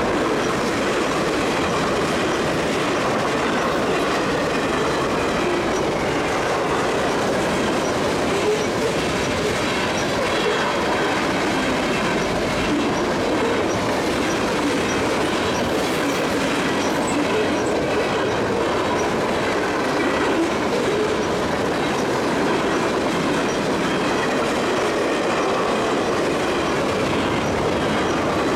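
Freight cars of a long CSX mixed freight train rolling past at steady speed: the even, continuous noise of steel wheels running over the rails.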